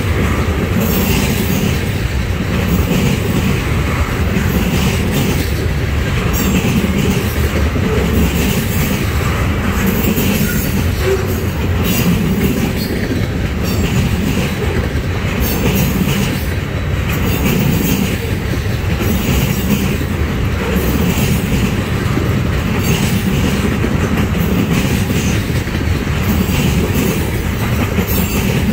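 Freight train of high-sided waste gondolas rolling past close by: a steady, loud rumble of steel wheels on rail, with repeated clicks and clunks as the wheelsets pass over the rail joints.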